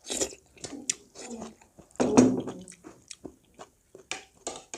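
Close-up eating sounds: a person chewing and biting food, with many short wet mouth clicks, loudest about two seconds in.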